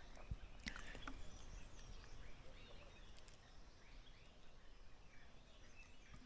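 Quiet forest ambience: faint, scattered bird chirps over a low steady rumble, with a couple of sharp clicks less than a second in.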